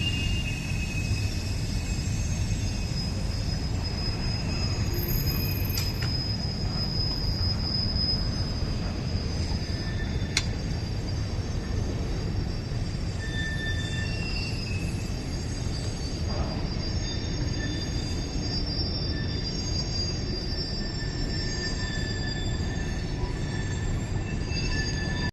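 Train running on rails: a steady low rumble, with high wheel squeals that come and go.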